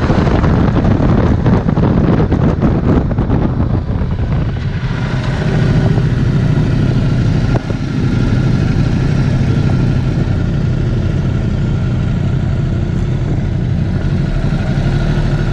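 Ducati Multistrada 1260 S V-twin engine heard on board, with wind rushing over the microphone as the bike slows. From about five seconds in it idles steadily.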